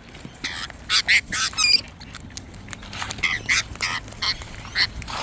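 Wild parrots squawking: a string of short, harsh screeches, loudest in a cluster about one to two seconds in, with more calls later.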